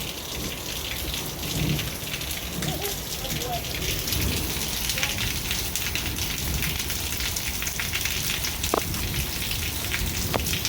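Heavy rain falling steadily, a dense hiss of drops striking hard surfaces.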